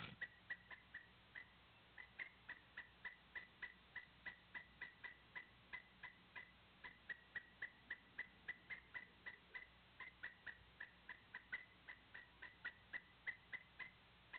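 A faint, steady series of short chip calls from a small animal, about three a second, running on without a break.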